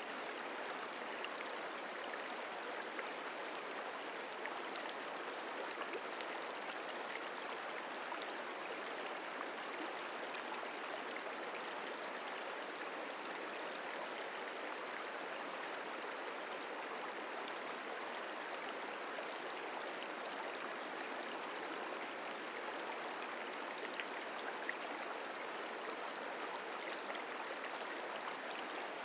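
The Merced River flowing: a steady, even rush of running water.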